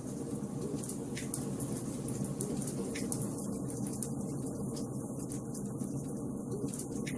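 Wood fire crackling in a fireplace: a steady soft rush of burning logs with a few sharp pops, about a second in, around three seconds in and near the end.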